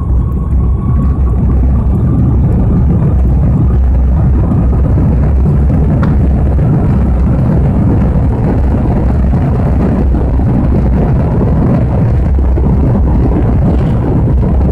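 Jet engines of a Lockheed TriStar, three Rolls-Royce RB211 turbofans, heard from inside the cabin as they power up for take-off. A thin whine rises slowly in pitch over the first few seconds, above a loud, steady low rumble.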